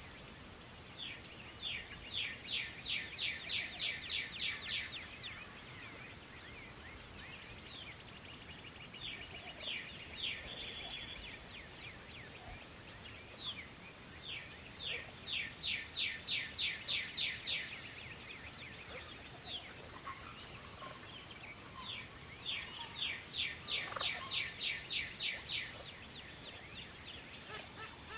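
Crickets at dusk, trilling in a steady, unbroken high-pitched chorus. Four times, a run of about ten rapid, evenly spaced lower chirps sounds over it.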